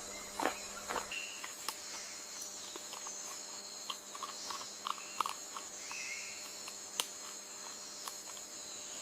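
Wild ambience: insects trilling steadily at two high pitches, with a few short bird chirps and light ticks scattered through.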